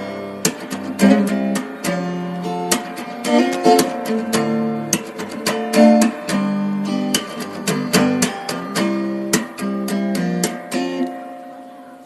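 Acoustic guitar music: a run of picked notes and strummed chords that dies away near the end.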